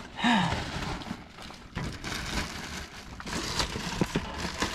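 Rustling and crinkling with scattered light clicks and knocks, the sound of someone handling things and moving about at close range.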